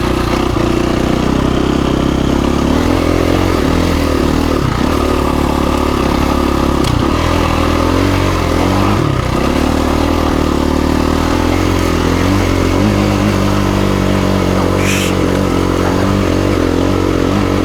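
2017 KTM 350 EXC-F dirt bike's single-cylinder four-stroke engine running at a fairly steady speed under low-speed riding. Its pitch dips briefly a few times as the throttle is rolled off and back on.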